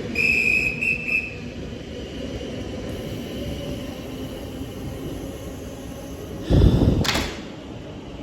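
Class 450 electric multiple unit at the platform: a short high warning tone, broken once, in the first second. About six and a half seconds in comes a loud thud with a brief hiss, the sound of the train's doors closing before departure.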